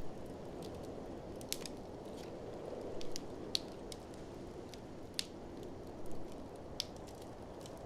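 Wood fire crackling, with irregular sharp pops over a steady low rushing noise.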